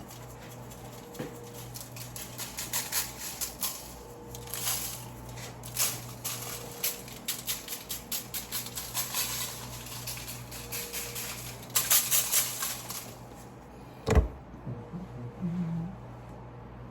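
Seasoning being shaken out of a shaker onto raw pork ribs: bursts of granular rattling and light tapping, with one sharp knock about fourteen seconds in.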